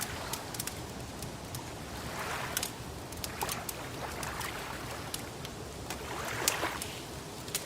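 Wood fire crackling, with frequent sharp irregular pops and snaps, over gentle water lapping in soft swells about every two seconds.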